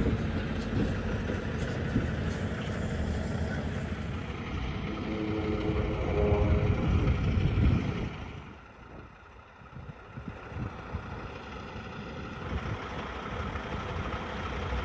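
Diesel engine of an International semi-truck pulling a trailer, running steadily as the rig reverses slowly along a dirt road. The sound drops low for a moment about halfway through, then the engine rumble comes back.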